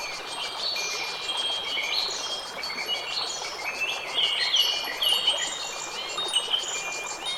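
Nature soundscape of many quick, high chirping and tinkling notes, overlapping continuously over a steady background hiss, with a fast, even pulsing buzz high above them.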